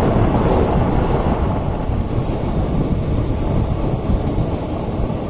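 Train running on the rails: a steady rumble of wheels on track that eases slightly after about two seconds.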